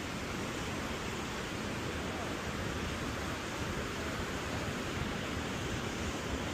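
Steady rushing noise of wind buffeting the microphone during a bike ride, mixed with ocean surf.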